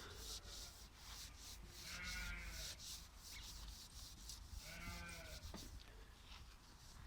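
Faint animal bleating, two calls each under a second long, over a steady low rumble and hiss.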